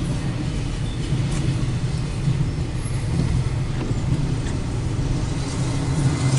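Intermodal freight train rolling past: a continuous low rumble of the cars with a steady engine drone underneath and occasional faint wheel clicks.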